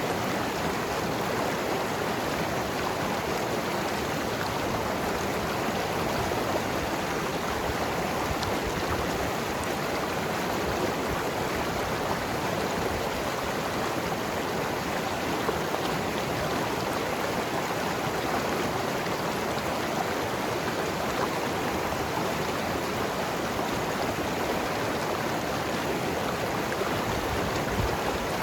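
Mountain river flowing and gurgling over rocks, a steady rushing with no pauses or changes in level.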